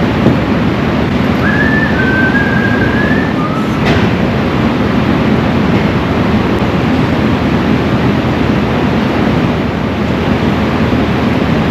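Steady, loud rumble of a running vehicle engine, with a brief high squeal between about one and three seconds in and a sharp click just after.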